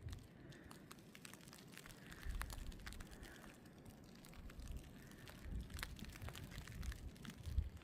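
Footsteps crunching in snow, with irregular low rumbles of wind buffeting the microphone.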